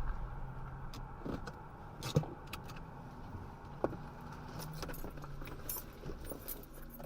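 A car driving, with a steady engine and road hum and scattered rattling, jangling clicks throughout, like keys or loose items shaking in the cabin.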